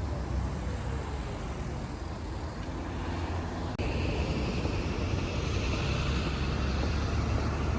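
Steady outdoor rumble of traffic or vehicles, with no speech. About four seconds in it changes abruptly to a similar rumble with a faint high steady hum over it.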